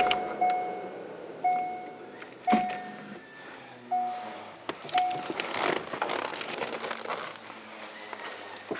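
The 2002 Chevrolet Corvette C5's engine is switched off, then its interior warning chime sounds about six times, a short clear tone each, at uneven intervals in the first five seconds. Clunks, rustling and keys jingling follow as the driver moves about the car.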